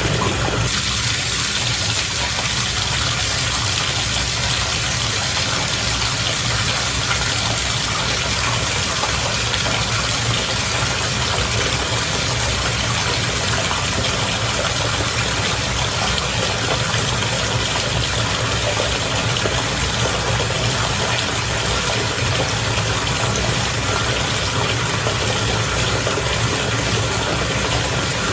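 Bath water bubbling and churning steadily over the low, even hum of a pump motor, as in a whirlpool tub with its jets running.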